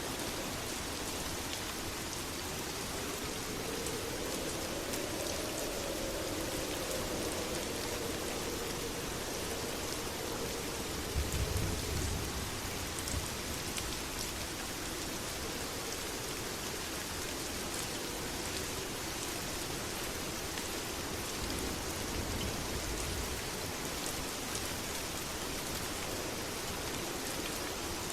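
Steady heavy rain falling and pattering on surfaces, with a brief low rumble about eleven seconds in.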